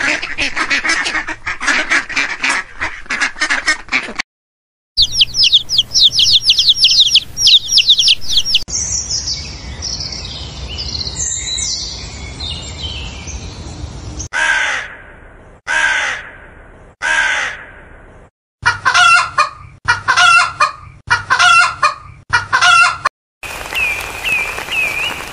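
A run of different bird calls: ducks quacking rapidly, then quick high chirping and a house finch's warbling song, then house crows cawing, three calls and then five.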